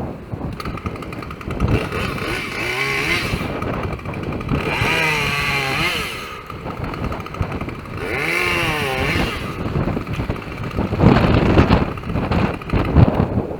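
Two-stroke chainsaw revved up and let fall back three times, each rev rising and then falling in pitch, followed near the end by a louder, rougher stretch of running, with wind buffeting the microphone.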